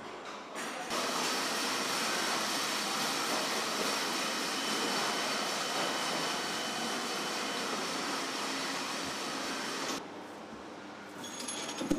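Steady machine noise: an even, loud whoosh with faint whines in it, starting suddenly about a second in and cutting off suddenly about ten seconds in.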